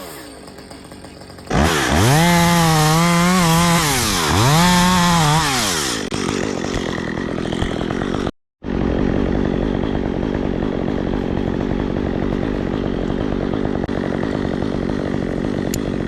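Chainsaw revved twice to full speed, then running steadily at a lower speed.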